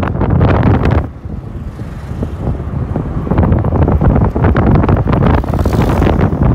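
Wind buffeting the microphone on a moving motorcycle taxi, with the ride's rumble underneath. The wind noise drops suddenly about a second in, then builds back up over the next few seconds.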